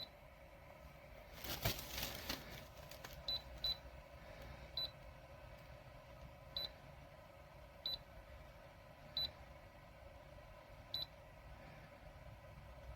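A series of short, high electronic beeps, about eight at uneven intervals, over a low steady hum. A brief noisy clatter comes about a second and a half in.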